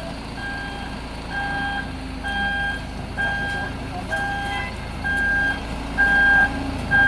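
Vehicle reversing alarm beeping steadily, about once a second, with two tones per beep, over a running engine.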